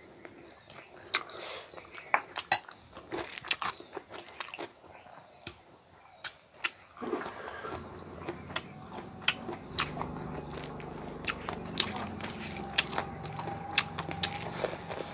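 Close-miked chewing with crisp crunches and many sharp wet mouth clicks, as raw cucumber and rice are eaten. A low steady rumble comes in about halfway through and stays under the chewing.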